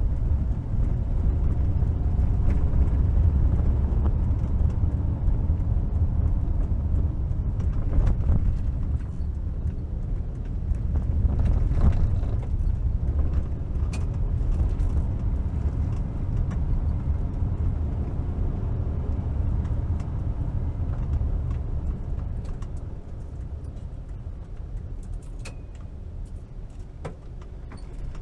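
1973 VW T2 bus driving, its air-cooled flat-four engine and road noise making a steady low rumble that eases off in the last few seconds.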